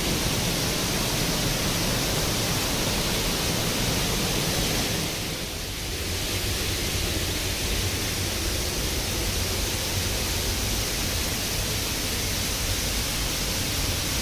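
Steady rushing of water, a loud even noise that dips and shifts briefly about five seconds in.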